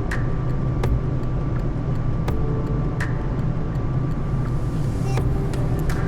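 Steady low hum of a Boeing 787 flight deck in flight on approach, with a faint steady whine above it and a few sharp clicks.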